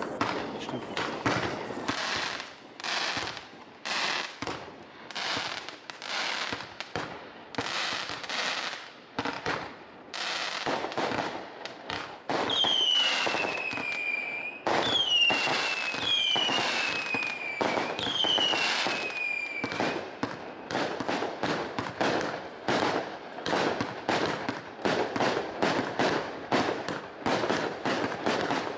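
Fireworks display: a rapid run of shell bursts and crackling bangs. Near the middle come four whistling effects, each falling in pitch.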